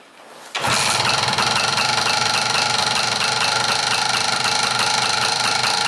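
MZ ETZ 301 single-cylinder two-stroke motorcycle engine kick-started, catching about half a second in and running steadily with a fast, even beat. This is its first start after its broken piston rings were replaced to cure a loss of compression.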